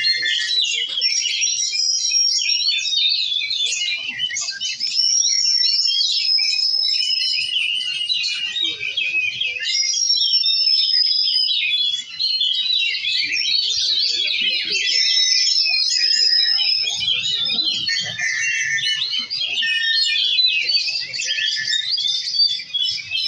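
Several songbirds singing at once in a dense, continuous chorus of overlapping chirps and trills, with long high whistled notes standing out now and then.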